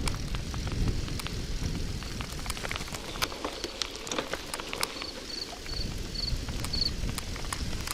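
Old KhVZ bicycle riding over a wet dirt road: steady tyre rumble with scattered crunching and clicking from the wheels and chain. Near the end come five short high chirps in a row.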